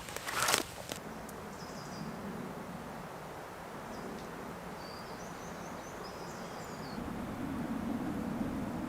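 Woodland ambience: a brief rustle at the very start, then a few short, high bird chirps over a low steady hum that grows louder about seven seconds in.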